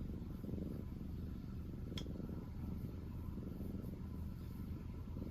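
Black cat purring steadily, close up, with a single sharp click about two seconds in.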